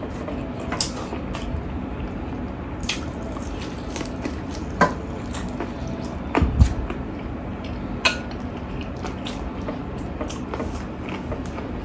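Close eating sounds: wet chewing of mutton curry and rice, with fingers working the food on a steel plate. Sharp clicks are scattered through it, and a louder knock comes about six and a half seconds in.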